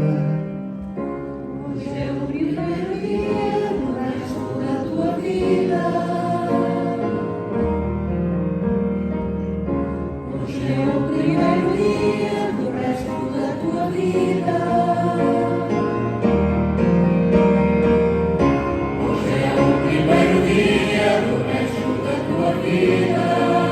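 Choir singing in slow, sustained phrases, with deep bass notes joining underneath twice.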